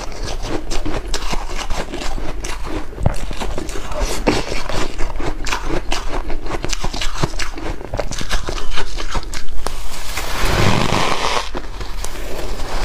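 White ice being bitten and chewed close up: a dense run of sharp, irregular crunches and crackles, with a louder, rougher stretch about ten seconds in.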